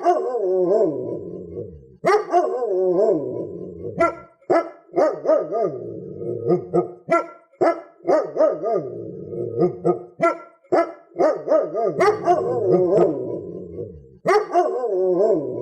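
A dog barking angrily and repeatedly. Long, drawn-out barks at the start and again near the end frame a quicker run of short barks, about two a second.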